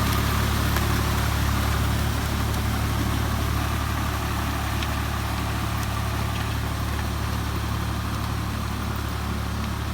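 Swaraj 744 FE tractor's diesel engine running steadily at a low, even speed.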